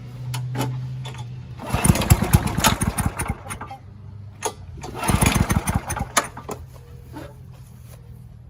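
Small single-cylinder engine of an MTD Yard Works walk-behind lawn mower running steadily while mowing, with two louder, rougher stretches of about two seconds and a second, starting about two and five seconds in.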